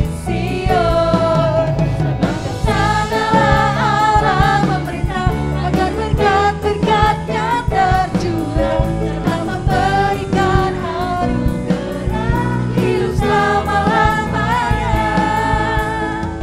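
Contemporary worship band playing a praise song, with several voices singing the melody over drum kit and other instruments.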